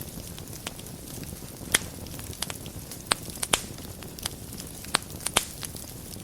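Wood fire burning in a fireplace, a steady low rush of flames with irregular sharp crackles and pops, several of them loud.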